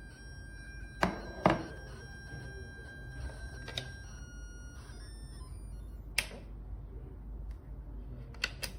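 A few sharp knocks and clunks, the loudest two about a second and a second and a half in, with more near the end, over a faint steady high whine that stops about four to five seconds in.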